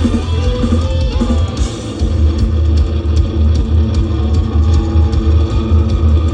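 Live rock band playing an instrumental passage between sung verses: electric guitar over heavy bass and a steady drum-kit beat, loud.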